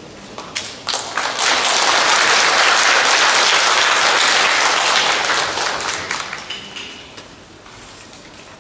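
Audience applauding: a few scattered claps, then a full round of clapping that holds for several seconds and dies away about seven seconds in.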